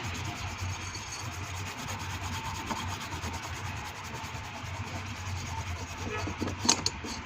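A brush scrubbing thinner over solder joints on a circuit board, a steady scratchy rubbing, cleaning off the soldering flux. A low hum runs underneath, and there is one sharp click near the end.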